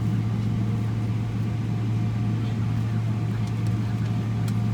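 Airliner's jet engines running steadily, heard from inside the cabin: an even low drone with a fainter steady whine above it, and a few faint ticks near the end.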